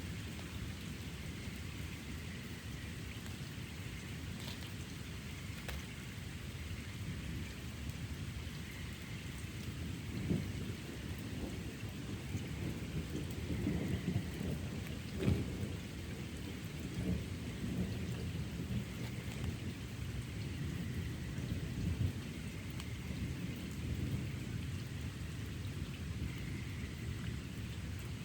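Steady rain falling through an ongoing thunderstorm, with thunder rumbling low and continuously underneath. A few short, sharper knocks stand out, about ten seconds in, twice around fourteen to fifteen seconds, and again around twenty-two seconds.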